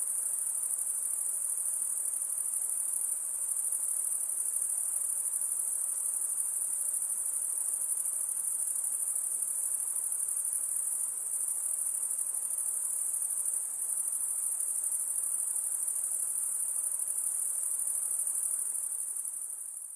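Crickets chirping in a dense, steady night chorus, a continuous high-pitched trill that fades out at the very end.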